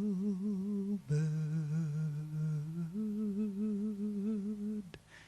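A solo voice singing long, wordless held notes with vibrato, the close of a slow song: one note, a lower note from about a second in, back up to the first near three seconds, then it cuts off shortly before the end.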